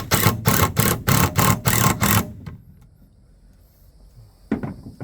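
Cordless drill driving a screw into wood in quick pulses, about three a second, that stop a little after two seconds in; one more short burst near the end.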